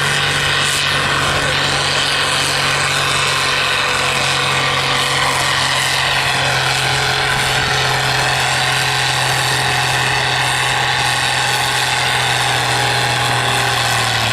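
Cockshutt stock tractor's engine running at full throttle under load while pulling the sled. The governor holds the engine speed, so the pitch stays steady throughout.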